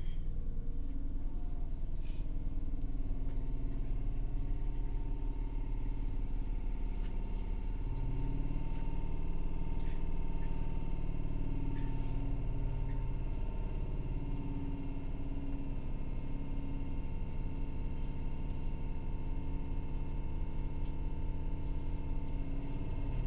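Inside a Seibu 301-series electric train's motor car, the car's equipment gives a steady hum of several held tones over a low rumble. The hum shifts a little about eight seconds in.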